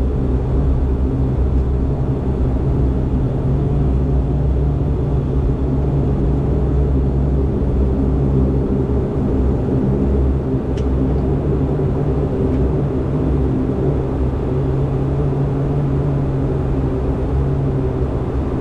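Steady vehicle engine drone with a low rumble and a constant hum that hardly changes.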